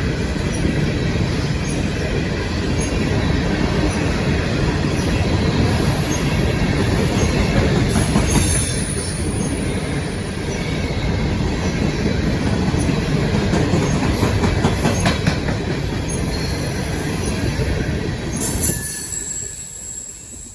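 CSX coal train's cars rolling past with a steady heavy rumble and high-pitched wheel squeal. The noise drops away suddenly near the end.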